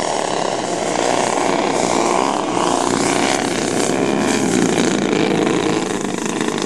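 B-29 Superfortress's radial piston engines and propellers running with a steady drone.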